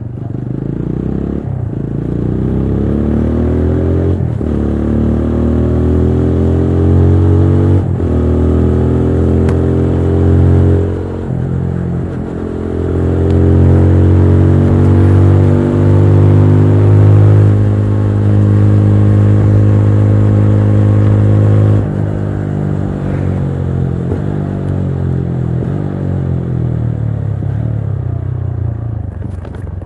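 TVS Apache RTR 200 4V's single-cylinder engine accelerating through several gears, its pitch climbing and briefly dropping at each of about five upshifts. It then holds loud and steady for several seconds, until the throttle closes and the revs fall away slowly on the overrun.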